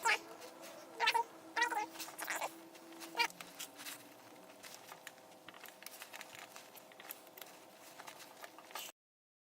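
A cat meowing about five times in quick succession over the first three seconds or so, followed by faint small clicks. The sound cuts out completely near the end.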